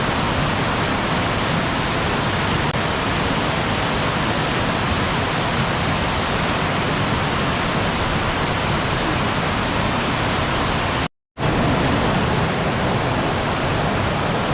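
Waterfall: a steady, even rush of falling water, cutting out completely for a moment about eleven seconds in.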